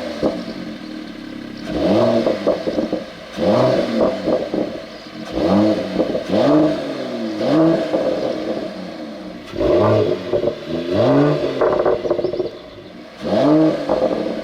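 Mercedes-AMG CLS53's turbocharged inline-six being revved while standing still, about seven separate blips, each rising and then falling in pitch.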